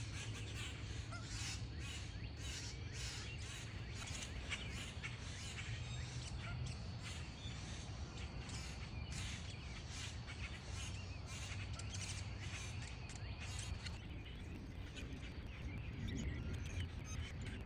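Wild birds calling outdoors, many short calls one after another, over a steady low hum of background noise.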